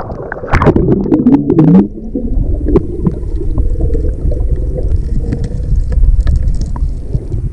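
River water churning and gurgling close to the microphone as a detectorist goes under to dig a target, a low rumble with scattered small clicks and a louder, more varied stretch in the first two seconds.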